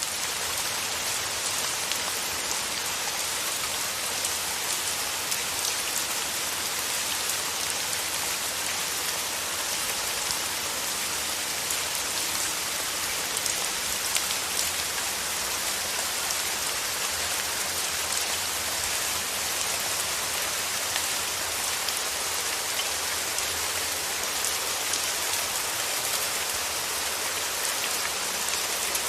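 Steady rain: an even hiss of falling rain with a fine patter of drops, holding a constant level.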